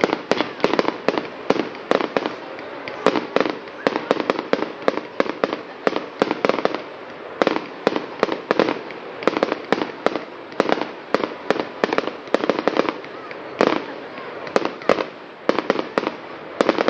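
Fireworks going off in a rapid barrage: a dense, unbroken run of sharp bangs and cracks, several a second.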